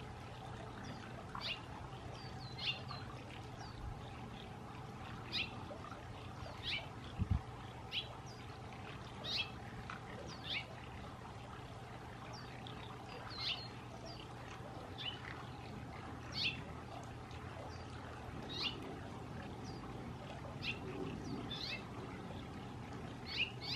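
Bird chirping outdoors: short, high, falling notes repeated every one to two seconds, over a steady low hum. A single low thump about seven seconds in.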